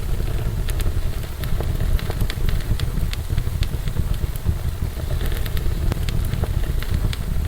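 Wood fire burning in a fireplace: a steady low roar with frequent sharp crackles and pops.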